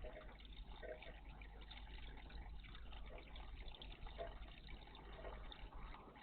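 Faint water trickling and splashing in a garden bird bath, with small irregular splashes.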